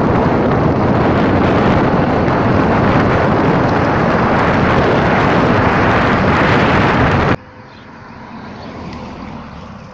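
Wind rushing hard over the microphone of a rider on a moving motorcycle, a loud steady roar of noise. It cuts off abruptly about seven seconds in, giving way to much quieter open air with a faint steady hum.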